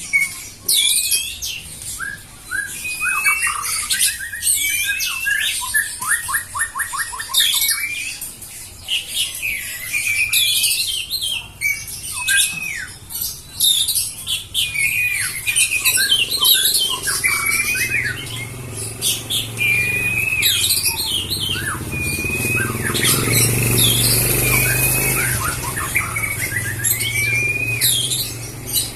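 Songbird singing a busy, varied song of quick whistled glides and squeaky, squawking notes, with a fast rattle about six seconds in. A low rumble comes up under the song from about halfway through.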